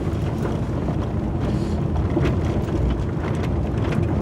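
Car driving on a gravel road, heard from inside: a steady low rumble of engine and tyres with scattered sharp ticks from the gravel.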